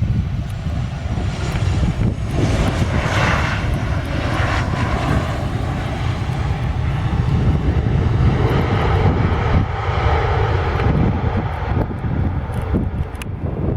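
Airliner engines running as the aircraft passes: a steady low rumble with a rushing sound that swells about two to five seconds in and again about eight to eleven seconds in.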